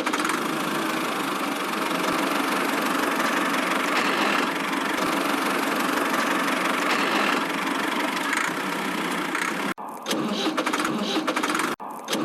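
An engine running steadily. About ten seconds in it breaks off abruptly and is replaced by a rattlier, faster-ticking running sound.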